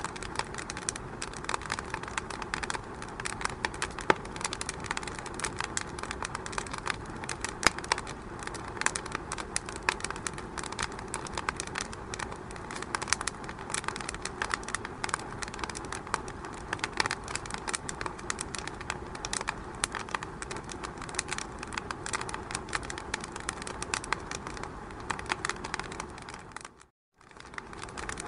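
Wood fire burning in a fireplace, crackling with dense, irregular pops and snaps over a steady hiss. The sound cuts out briefly near the end.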